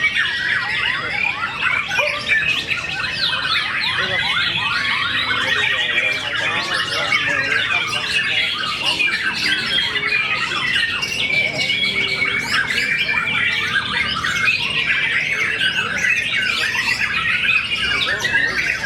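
Many competition songbirds singing at once in a dense, unbroken chorus of rapid chirps, trills and squeaky calls.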